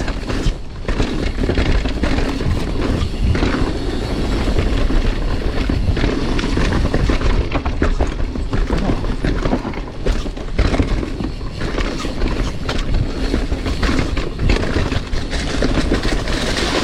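Mountain bike rolling over a rough dirt trail: a continuous rumble of tyres and frame, with frequent knocks and rattles as the bike hits bumps.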